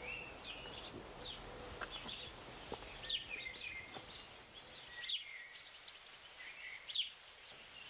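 Songbirds chirping faintly: short, quick falling notes about once every second or so, over a low outdoor hiss and a thin steady high tone.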